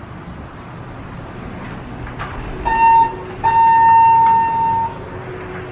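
A vehicle horn sounds twice, a short toot and then a longer blast of about a second and a half, over a steady background hum.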